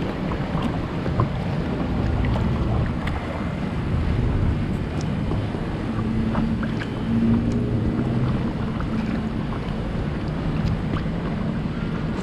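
Wind rumbling on the microphone over the water sounds of a stand-up paddleboard moving along a canal. A faint low hum comes in for a few seconds around the middle.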